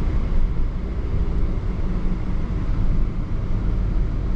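Car driving along, a steady low rumble of engine and road noise with no change.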